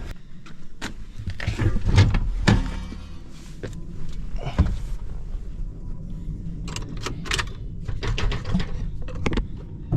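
Scattered thunks, knocks and clicks of a truck door and of someone getting into the cab of a Ford F-250 pickup.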